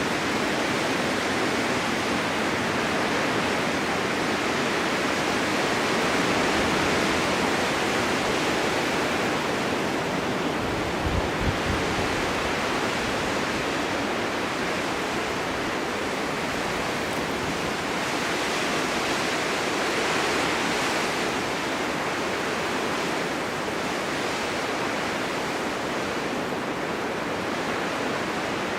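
Blizzard wind blowing, a steady dense hiss that swells and eases every few seconds, with one brief low buffet near the middle.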